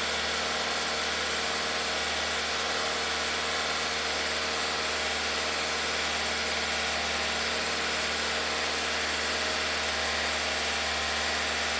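2014 Ford Transit Connect's 1.6-litre EcoBoost four-cylinder engine held at slightly raised revs, running steady and even. Off idle it runs smoothly, without the surge that the mechanic lays to a bad upstream air-fuel ratio sensor.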